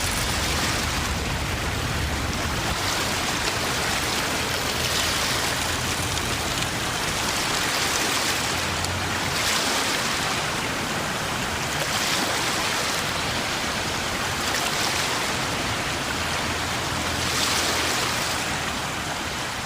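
Sound effect of a tsunami surging through a harbour: a continuous rush of churning water over a low rumble, swelling louder every few seconds.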